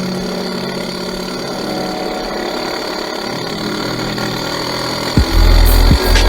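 Enduro motorcycle engine running steadily, with small shifts in pitch. About five seconds in, a loud deep throbbing starts.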